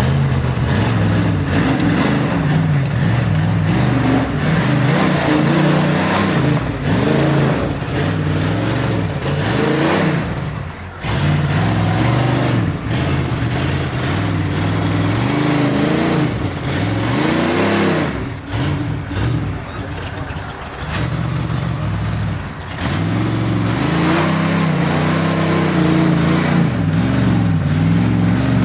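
Rock-crawler buggy's engine revving up and down again and again as it works its way up a steep rock ledge. It drops briefly about a third of the way in and eases off for a few seconds past the middle, then picks back up.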